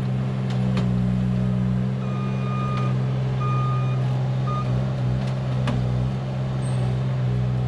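Small turbo diesel engine of an ASV RT25 compact loader running steadily under work, with its backup alarm giving three beeps in the middle, the last one brief. A few sharp knocks from the machine.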